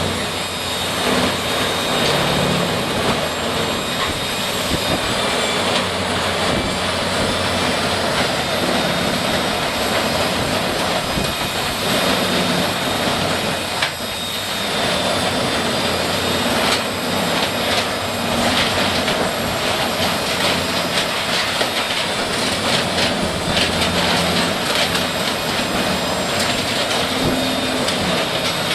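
Heavy machinery running steadily: a loud, dense mechanical noise with a high, steady whine over it, dipping briefly about halfway through.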